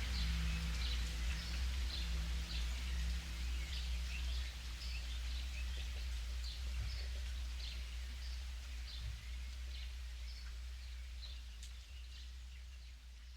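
Rainforest ambience: many short bird chirps over a steady low hum, with soft held low tones in the first few seconds, fading out gradually.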